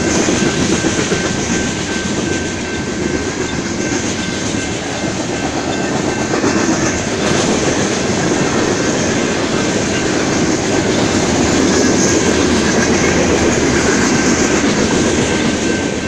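Coal train's hopper cars rolling past: a steady rumble and clickety-clack of steel wheels on rail, with a faint steady high-pitched tone above it.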